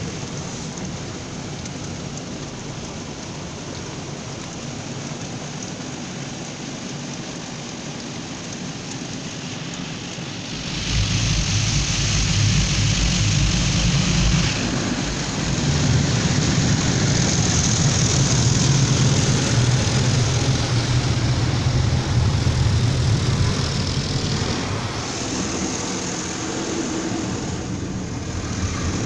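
Automatic car wash at work: water spraying in a steady hiss, then about ten seconds in a much louder machine hum starts with harsher spray over it, running on and easing off near the end.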